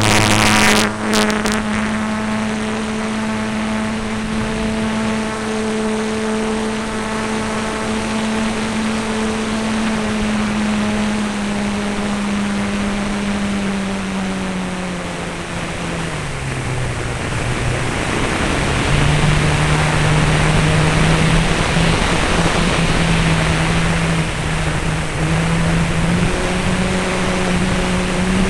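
Radio-controlled aerobatic model airplane's propeller and motor droning in flight. The pitch holds steady, drops sharply about two-thirds of the way through, then climbs part way back with more rushing air noise.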